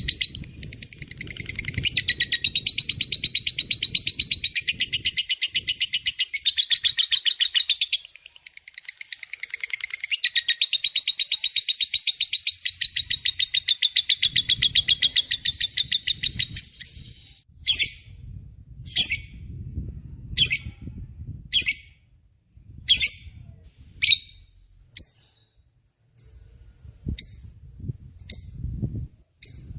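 Lovebird chattering in a long, very fast trill, the 'ngekek panjang' song. It breaks off briefly about eight seconds in, then stops about seventeen seconds in. For the rest of the time it gives single sharp calls a little over one a second.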